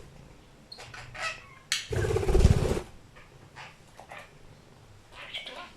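A domestic cat giving one loud, low call about a second long, around two seconds in, with short faint chirps from a budgie before and after it.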